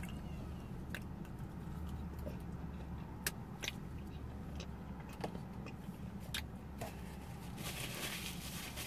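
Close-up eating sounds: a soft pretzel being chewed, with a few sharp mouth clicks and smacks, over a steady low hum inside the car. Near the end a paper napkin rustles as greasy fingers are wiped.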